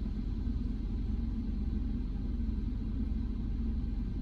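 Onboard dryer blowers of a PDQ Tandem Surfline touchless car wash running a flash dry, heard as a steady low rumble.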